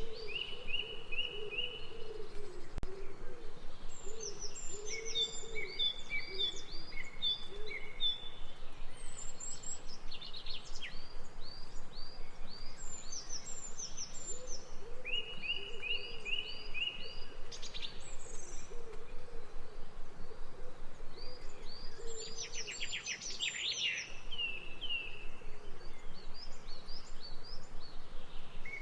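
Several songbirds singing, with short chirps repeated in quick runs, over a steady background hiss of outdoor ambience.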